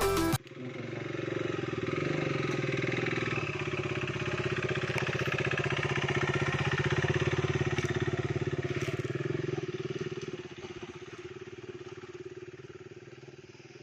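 Motorcycle engine running at a steady pitch, dropping quieter about ten seconds in.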